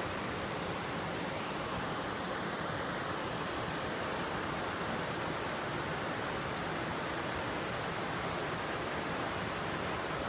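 Steady rushing of water, a swollen stream or river in full flow after torrential rain, an unbroken even roar.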